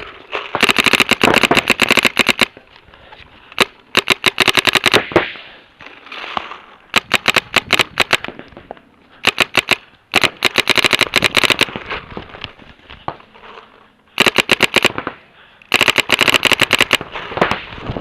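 Paintball markers firing rapid strings of shots, about ten a second, in repeated bursts of up to two seconds with short pauses between.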